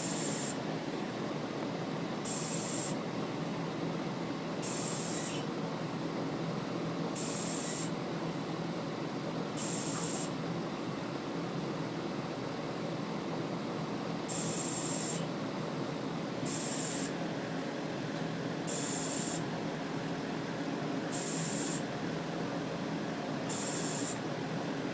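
An HVAC unit's R-410A compressor running with a steady hum. A short hissing rasp recurs about every two and a half seconds, and the owner suspects it means a bad compressor.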